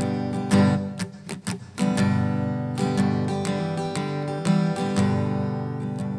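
Acoustic guitar strumming chords in an instrumental passage of a song, with no singing. There is a brief softer moment about a second in.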